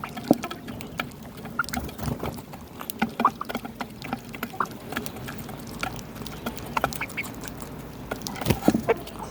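Domestic fowl making short calls, with many scattered clicks and taps and a louder cluster of sounds near the end.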